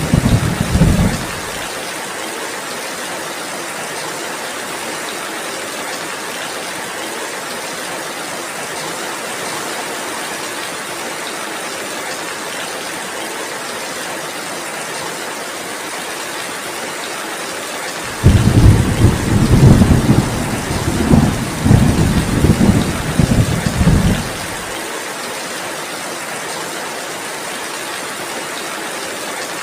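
Heavy rain falling as a steady hiss, with rolling thunder rumbling low beneath it. One rumble dies away about a second in, and a second, longer one comes in after the middle and lasts about six seconds.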